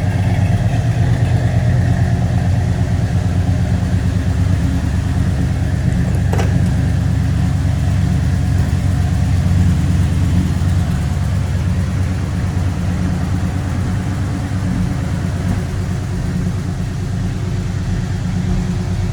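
The El Camino's 402 big-block V8 idling steadily, with a single click about six seconds in.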